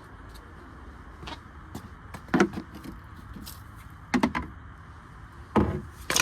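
Four sharp knocks and clunks of tools and metal parts being worked in a car's engine bay, spaced a second or two apart.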